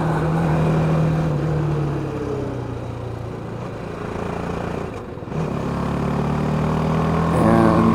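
BMW G310GS single-cylinder engine running under way, with wind noise. The engine note drops off and quietens in the middle as the throttle eases, then picks up again after about five seconds.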